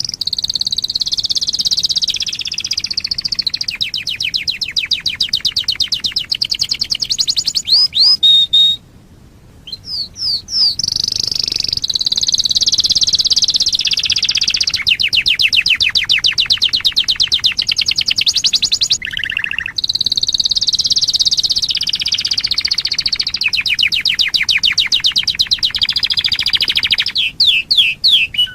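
Canary singing: long phrases of fast trills and rolling runs of rapidly repeated notes, in three long bursts with short breaks about nine and nineteen seconds in.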